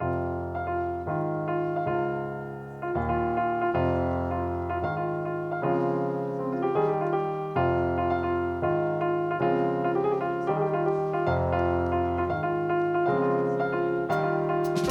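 Solo jazz piano playing an introduction of sustained chords over low bass notes, moving to a new chord about every second.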